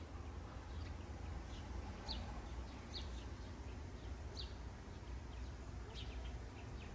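Outdoor garden ambience: several short, high bird chirps scattered over a steady low rumble.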